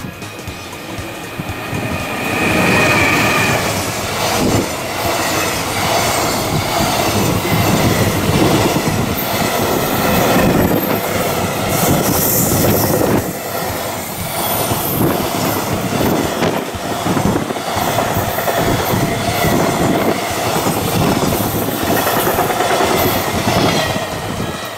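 JR Freight EF210 electric locomotive and a long train of container wagons passing close by: loud rumble of steel wheels on rail, building over the first two seconds, with a rhythmic clickety-clack over the rail joints and a high wheel squeal at times.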